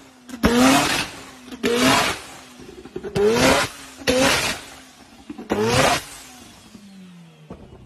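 Mazda RX-7's engine blipped hard five times, each rev shooting up in pitch and dropping straight back, with a harsh crackle from the exhaust on every blip. After the last blip it settles to a low idle.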